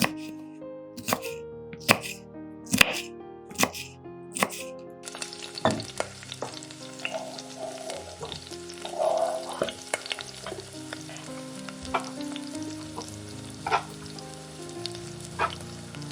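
Sharp knocks about once a second for the first five seconds, then food sizzling as it fries in hot oil in a pan, with occasional stirring clicks.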